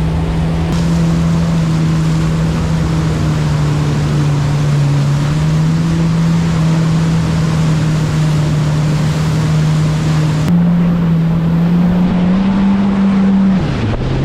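Jet ski engine running steadily under way, with rushing water and wind noise. The pitch rises a little twice in the last few seconds, then falls sharply just before the end as the throttle comes off.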